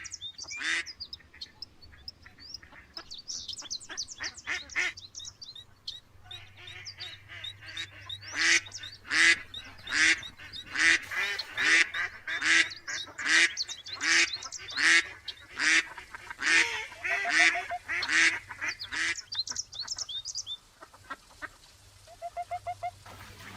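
Farm waterfowl honking over and over, with several birds calling at about two calls a second. The calls thin out near the end.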